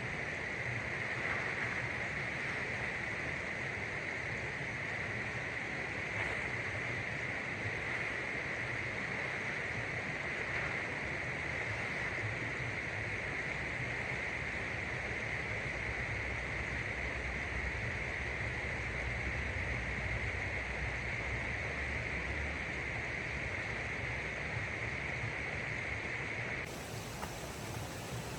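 Steady rushing of a flowing stream, an even wash of water noise that holds throughout and shifts abruptly near the end.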